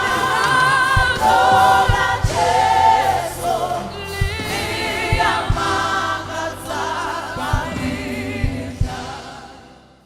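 Gospel choir singing with a bass and drum beat, fading out near the end.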